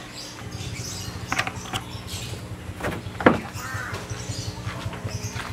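A bird calling a few times over a low steady hum, with a single thump about three seconds in.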